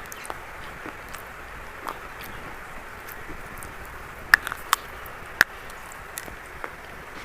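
Dry chalk crunching: a few sharp, separate cracks about four and a half to five and a half seconds in, over a steady hiss.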